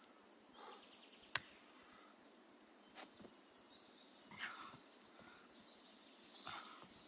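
Quiet forest ambience with a few soft rustles and a couple of sharp clicks, the loudest about a second and a half in.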